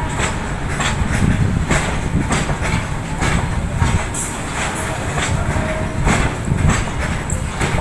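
Goods train of covered wagons rolling past: a steady heavy rumble with repeated clacks, roughly two a second, as the wheels pass over the rail joints.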